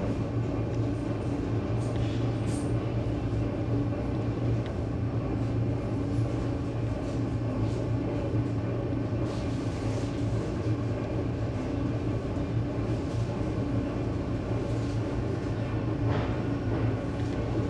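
ED9M electric train running steadily, heard from inside the carriage: a continuous rumble under a steady low hum, with a few faint knocks.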